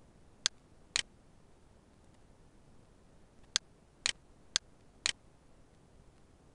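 Computer mouse clicking: six sharp clicks in three pairs, the two clicks of each pair about half a second apart.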